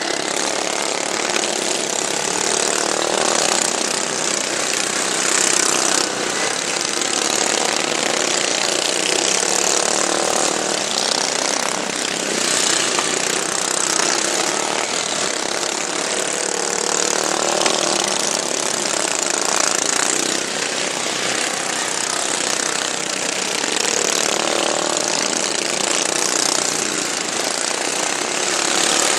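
Modified racing lawn mowers' small engines running hard together, a continuous loud rattling engine noise that rises and dips a little.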